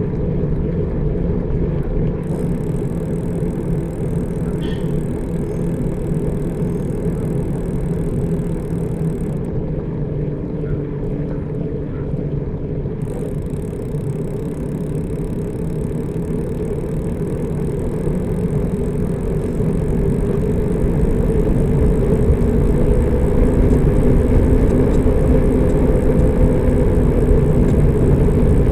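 Steady low rumble of a motor vehicle on the road, with a faint engine hum. It grows louder about two-thirds of the way through.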